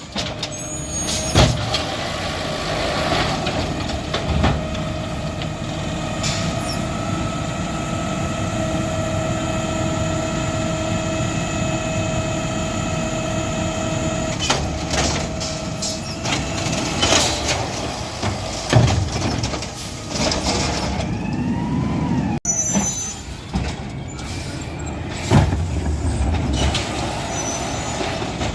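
Garbage truck running, with a steady whine from its hydraulics working for about the first half. Several loud bangs come at irregular intervals.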